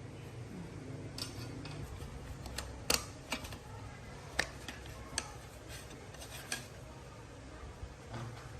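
Light metallic clicks and clinks of small metal parts or tools being handled, about eight separate strikes at uneven intervals, the loudest about three seconds in, over a low steady hum.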